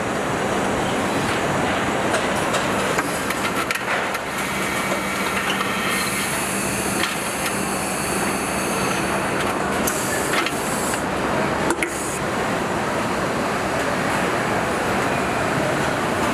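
Continuous dense machinery noise with a steady hum and scattered knocks and clanks, the kind heard on an auto assembly plant floor. The hum drops out about ten seconds in.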